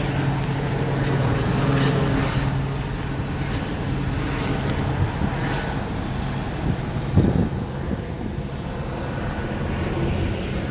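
Street traffic: a steady vehicle engine hum that fades out about two and a half seconds in, over the noise of passing vehicles, with a single brief thump about seven seconds in.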